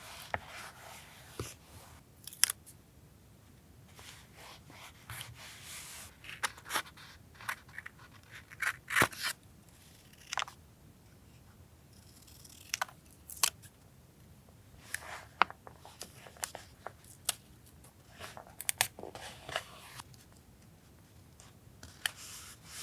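Paper being handled for a collage: sheets and pieces of paper rustling and crinkling in irregular spells, with many scattered sharp clicks.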